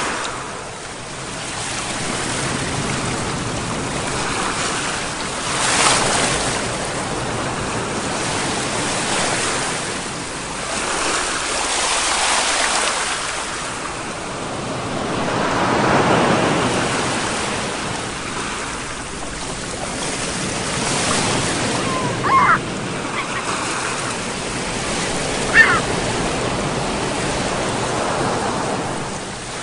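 Sea waves washing in, the noise of the surf swelling and easing every few seconds. Two short high-pitched sounds come about three seconds apart near the end.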